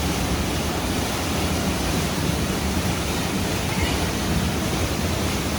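Waterfall water rushing in a steady, unbroken roar of noise.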